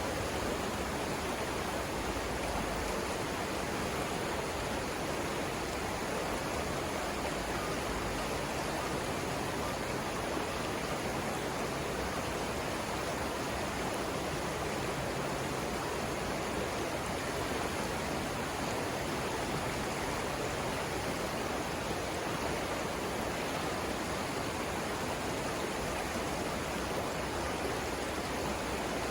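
Steady rushing of river water flowing over rapids, an even wash of noise with no breaks.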